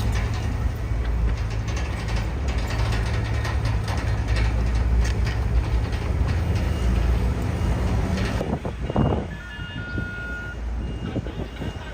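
Heavy diesel earthmoving machinery running loud, with rattling metal clanks over the engine rumble; the engine noise falls away about eight and a half seconds in. Near the end a reversing beeper sounds in short repeated beeps.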